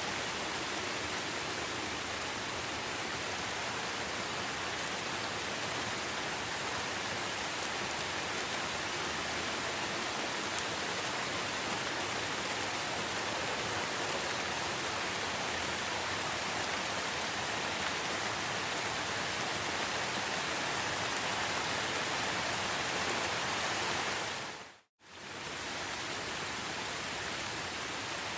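Steady, even hiss of rainfall with no birds or other calls. It fades out to silence for a moment a few seconds before the end, then comes straight back.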